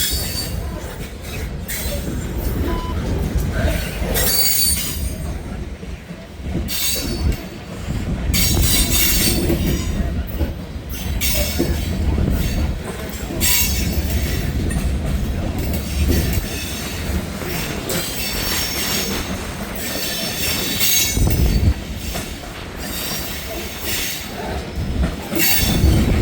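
Loaded freight train of grain hopper cars rolling past close by: a heavy, continuous rumble and clatter of steel wheels on the rails, with the noise swelling and easing as the cars go by.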